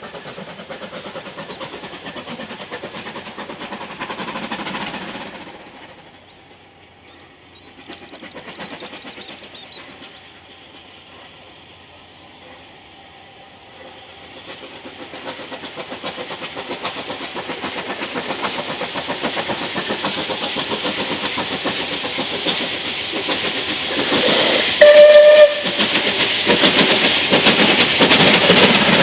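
Steam locomotive working hard as it approaches, its exhaust building steadily louder through the second half, with one short, loud whistle blast about 25 s in. A fainter stretch of train sound in the first few seconds fades away before it.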